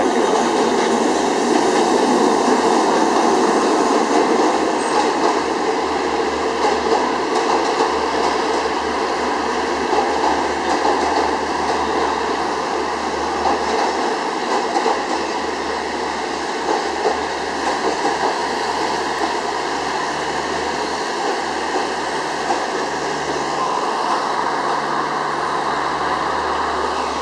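Stationary passenger train idling at a station platform: a steady engine drone with a low hum underneath.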